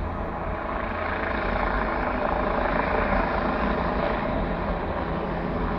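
Helicopter engine and rotor running steadily close by.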